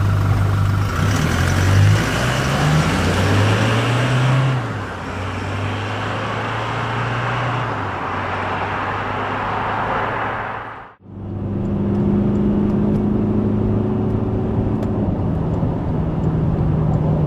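Toyota Hilux GUN125's four-cylinder turbodiesel running, heard through its exhaust while the truck is driven. Its pitch rises in steps a few times early on, then holds steady. About eleven seconds in the sound cuts out for a moment and comes back as a steadier, slightly higher engine hum.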